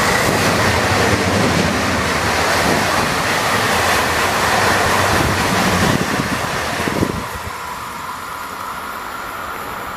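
Red DB S-Bahn electric multiple unit passing close by: a loud rush of wheels and air with a faint steady whine. It drops away about seven seconds in as the last cars go by and the train moves off.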